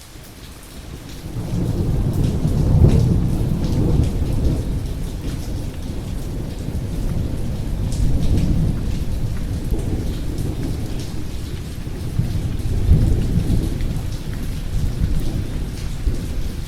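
Thunder rumbling through steady rain. The rumble swells about a second and a half in, peaks twice (near the start and again past the middle), and fades near the end.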